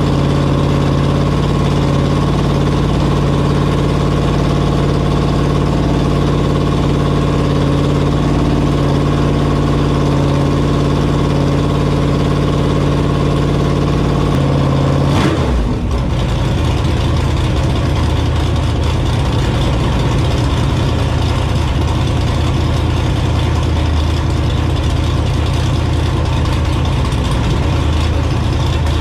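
Stroked 7.0-litre (427 ci) iron-block LS V8 running on an engine dyno, held at a steady raised speed, then dropping sharply about halfway through to a lower, rougher idle.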